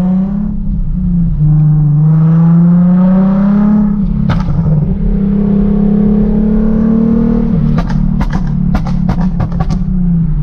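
Straight-piped Nissan 370Z's 3.7-litre V6 running under way with a loud, steady exhaust drone that climbs slightly in pitch a couple of seconds in. There is a single exhaust crack about four seconds in, and a rapid string of exhaust pops between about eight and nine and a half seconds as the throttle is lifted.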